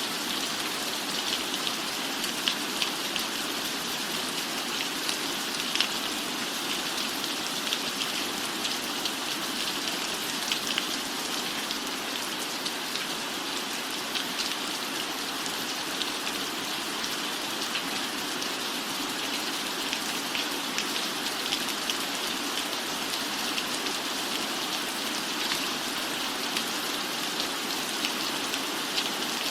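Steady rain falling: a constant even hiss with many small drop ticks scattered through it.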